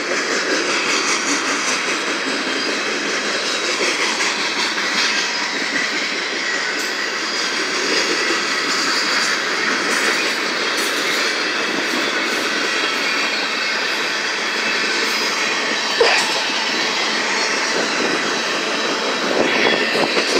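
Union Pacific manifest freight train's cars rolling past, the steady noise of steel wheels on rail, with one sharp clank about sixteen seconds in.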